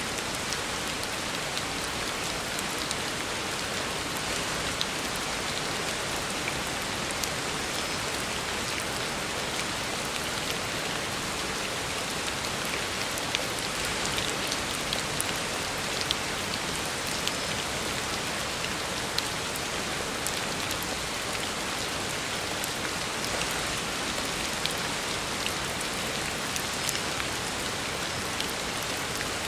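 Heavy rain falling steadily on a road surface: a dense, even hiss with many small sharp drop impacts.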